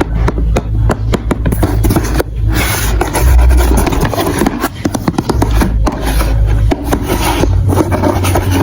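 Marbles rolling and clattering through a plastic building-block marble run: a quick rattle of clicks in the first two seconds, then a steady rolling rumble with scattered clicks.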